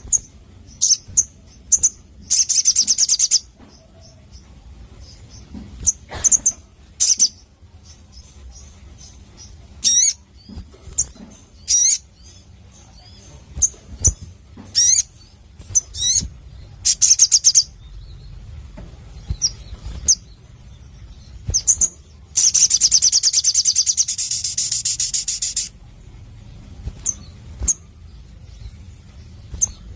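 Sunbird (sogon) singing: sharp high chirps and short sweeping notes, broken by rapid buzzy trills, with one long trill about three-quarters of the way through.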